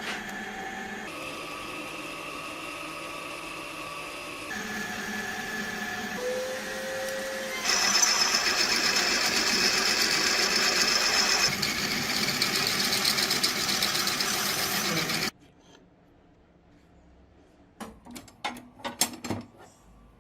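A small power tool running steadily. Its pitch and loudness jump every few seconds and it gets loudest about eight seconds in, then it cuts off suddenly about fifteen seconds in. A few short clicks and knocks follow near the end.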